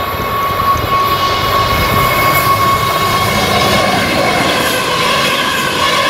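ICE high-speed train passing close by at speed: wheels and air rushing, with a steady whine from the traction drive running over it.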